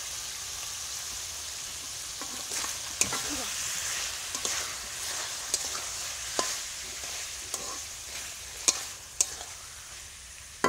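Chicken and potato curry sizzling in a metal kadai while a metal spatula stirs and turns it, scraping the pan with several sharp knocks of the spatula against the metal. The pieces are frying in the spiced curd masala before any water is added.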